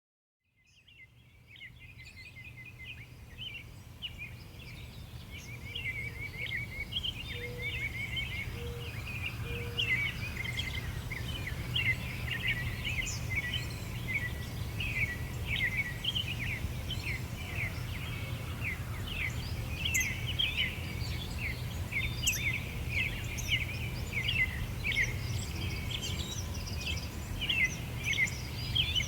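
Many small birds chirping and singing together in a dense, continuous chorus, over a steady low rumble. It fades in from silence at the start.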